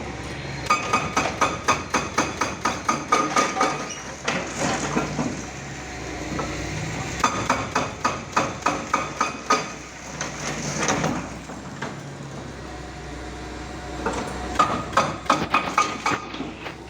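Rapid metallic hammering, about five strikes a second with a ringing tone, in three runs of a few seconds each, during demolition work.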